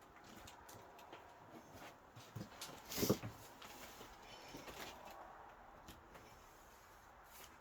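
Small clicks and rustles of hands and tools working on a UTV's rear window panel and its bolts, with one louder thump about three seconds in.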